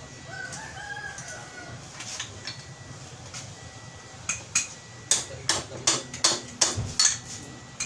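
A rooster crows faintly early on. From about four seconds in, a quick run of about ten sharp metallic strikes or clinks, metal hitting metal, makes the loudest sound.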